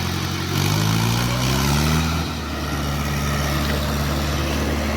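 Tractor engine revving up under load, rising in pitch over about a second and a half, then holding steady at higher revs.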